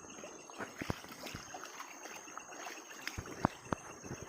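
Shallow water trickling and splashing, with scattered short sharp drips and splashes, as hands work in the water. A steady high insect chirring carries on behind.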